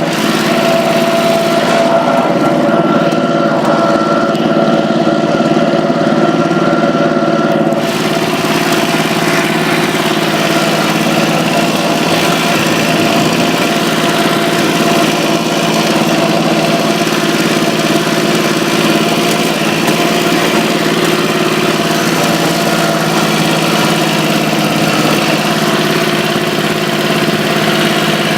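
Tractor engine running steadily; about eight seconds in, a broader rushing noise joins it and carries on.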